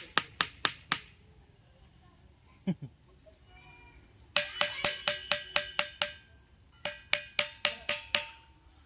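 A ringing rock (thinthini patthar) being struck over and over, giving a metallic, iron-like clink with a brief ringing tone on each hit. Four strikes come first. From about four seconds in, two quick runs follow at roughly five or six strikes a second.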